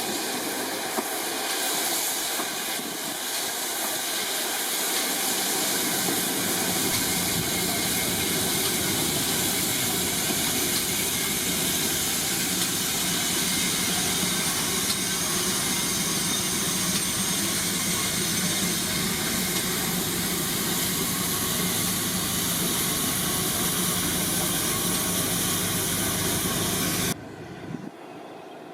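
Railway locomotive running with a steady hiss and whine; a deeper rumble joins about six seconds in, and the sound cuts off abruptly near the end.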